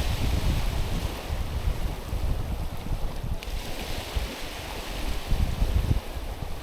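Small waves washing onto a stony shore, the hiss of the water swelling and easing off, with a fresh wash rolling in about halfway through. Wind buffets the microphone with a low, uneven rumble.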